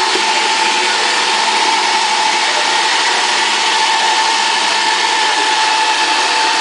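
Roomba robot vacuum running: a steady motor whine over a constant rushing hiss.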